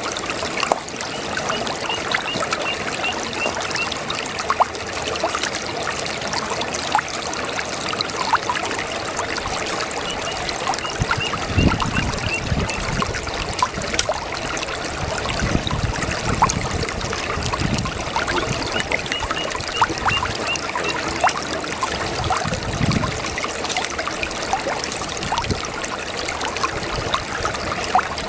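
A babbling brook: water trickling and splashing over stones, a steady dense wash full of small drips. A run of quick high chirps comes in three times, and low rumbles surface a few times in the middle.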